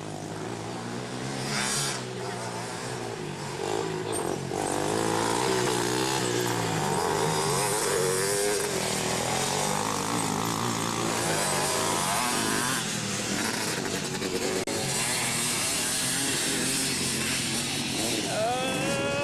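Several small racing three-wheeler and quad engines revving hard at once, their pitches rising and falling as they accelerate, shift and pass. They get louder over the first few seconds and stay loud from about four seconds in.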